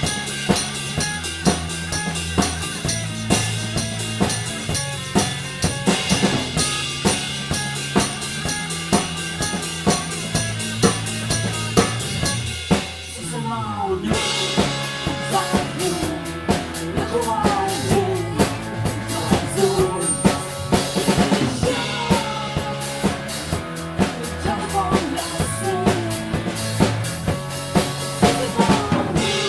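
Instrumental band music: a drum kit keeps a steady beat over sustained bass notes. About 13 seconds in the texture briefly thins, then a melodic line with bending, gliding notes comes in over the drums.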